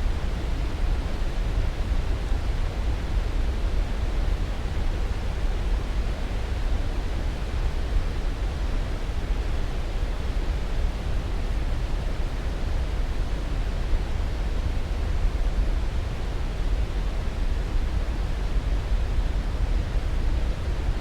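Steady, unbroken noise with no events, deep and heavier in the low end than the high, of the kind played as white noise for sleep.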